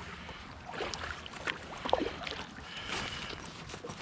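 Kayak paddle strokes dipping and splashing in the water, a few irregular swishes.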